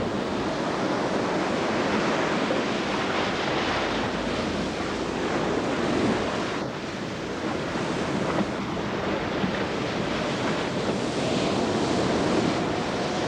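Stormy sea: waves surging and breaking, with wind, an even rushing noise that holds steady throughout.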